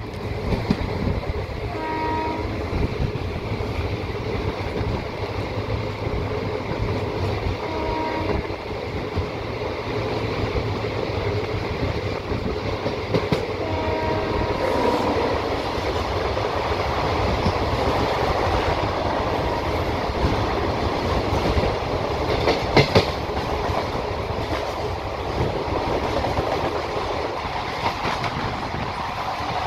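MEMU passenger train running at speed, heard from aboard with a steady rolling rumble and clatter of wheels on rail. A train horn sounds in three short blasts, about 2, 8 and 14 seconds in, the last one longer. A couple of sharp knocks come from the running gear, the loudest a little over 20 seconds in.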